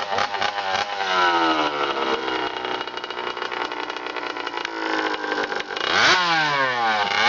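Dirt bike engine running, its pitch sinking slowly for several seconds, then revving up sharply about six seconds in, dropping back and revving again near the end.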